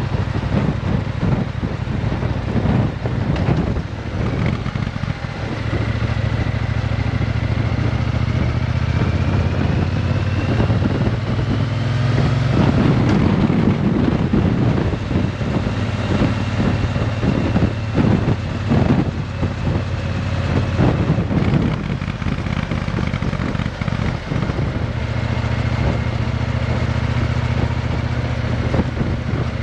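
Triumph Bonneville T120 parallel-twin engine running through a Vance & Hines aftermarket exhaust, its note shifting a few times.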